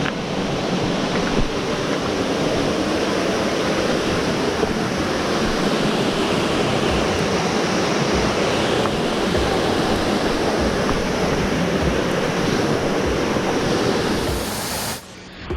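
Steady rushing of a waterfall, with low wind buffeting on the microphone underneath; it cuts off suddenly shortly before the end.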